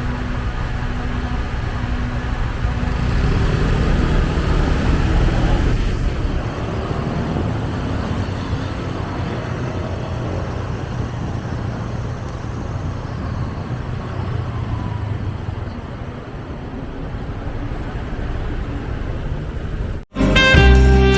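Road traffic and engine noise heard while riding a motorcycle in city traffic: a steady low rumble that cuts off sharply near the end, replaced by music.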